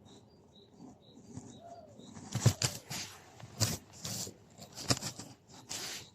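A run of short rustling, scuffling bursts and knocks, starting about two seconds in, the loudest about halfway through; before them, a few faint high chirps.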